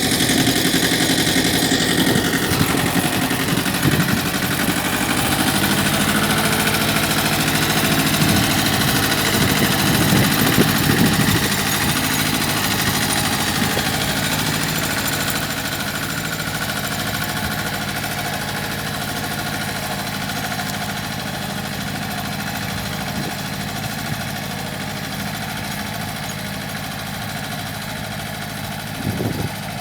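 Mitsubishi tractor's diesel engine running steadily while ploughing. It gets gradually quieter after about twelve seconds, with a couple of short knocks near the end.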